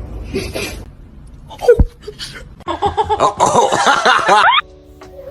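Loud, excited laughter bursting out about two seconds in and cut off abruptly near the end, followed by a few steady musical tones.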